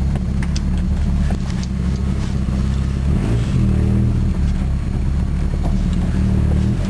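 Ford Mustang's turbocharged 2.3-litre (140 ci) inline-four running at low speed through an exhaust whose muffler was wrecked by backfires, giving a loud, raw, near straight-pipe note. Its pitch shifts up and down a little about three seconds in.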